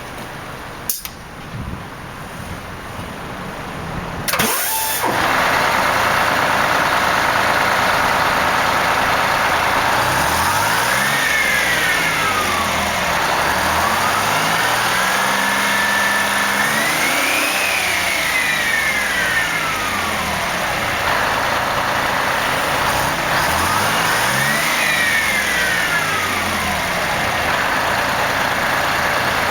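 GM New Look bus's Detroit Diesel engine catching about four seconds in, then running at idle. It is revved three times, the pitch rising and falling each time, the middle rev held longest.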